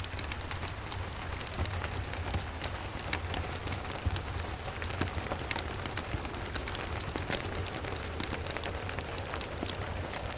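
Steady rain mixed with a crackling fireplace: an even hiss scattered with many sharp ticks, over a steady low rumble.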